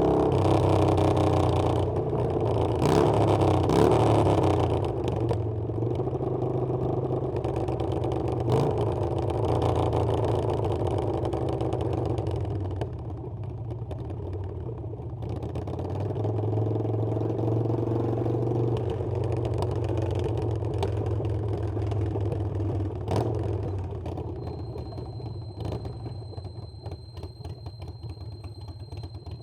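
Harley-Davidson Iron 883's air-cooled V-twin engine running on the move. Its note rises and falls with the throttle and drops lower and quieter towards the end, with a few sharp knocks along the way.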